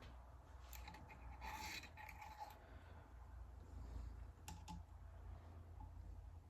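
Faint handling of small metal parts as a snap ring is fitted to a transmission shaft: a soft scrape, then a couple of light metallic clicks, over a low steady hum.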